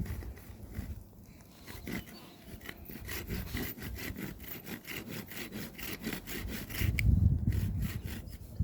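Hand saw cutting through a piece of firewood, in quick, even back-and-forth strokes that start about two seconds in.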